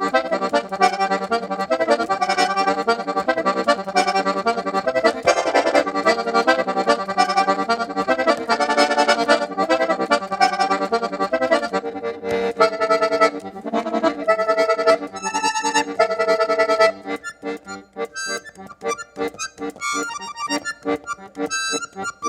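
Accordion (sanfona) playing a fast melody over full chords; about seventeen seconds in it drops to a quieter passage of short, detached notes.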